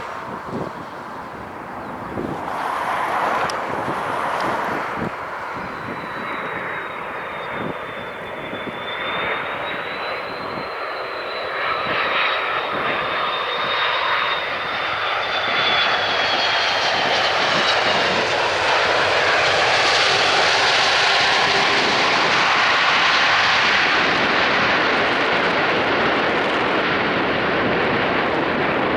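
Jet airliner's engines going by: a high whine over a rushing noise that swells and holds loudest through the second half.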